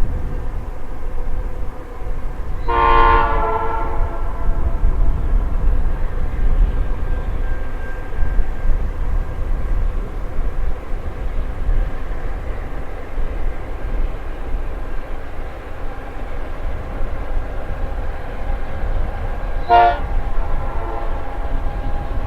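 Freight locomotive horn sounding one chord-like blast of over a second early on, then a brief short toot near the end, over a steady low rumble of the train and wind.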